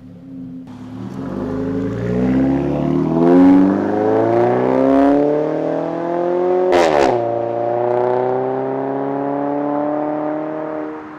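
Mazda 3's four-cylinder engine revving through a Corksport midpipe and Borla axle-back exhaust. The revs climb slowly for several seconds, a quick sharp blip comes about seven seconds in, then the revs are held and ease back down, falling toward idle near the end.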